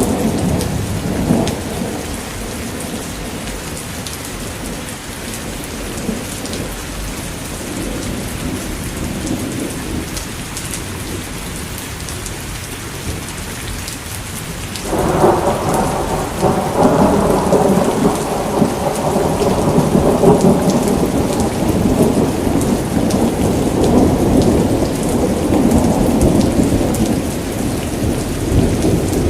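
Steady rain with thunder rumbling. The rumble eases off after the first few seconds, then a louder peal of thunder breaks in suddenly about halfway through and rolls on to the end.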